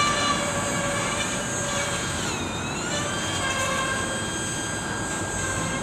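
Freight train rolling past with a steady rumble of cars on the rails and high-pitched wheel squeal. The squeal holds several thin tones that dip and rise in pitch about two to three seconds in.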